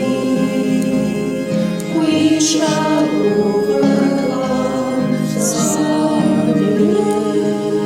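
A hymn sung by voices over sustained instrumental accompaniment, the held notes steady and the sung lines wavering in pitch.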